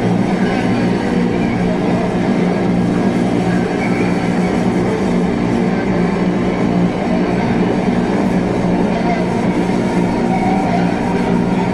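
Drone and noise music: a dense, steady drone of several held low tones under a layer of hiss, with no beat.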